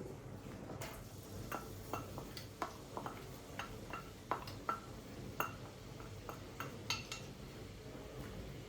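Kitchenware clinking and knocking: a run of irregular light clinks, some with a brief ring, like dishes and utensils being handled.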